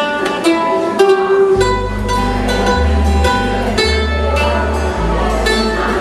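Country gospel song's instrumental intro: picked acoustic guitar notes, with a bass line coming in about a second and a half in.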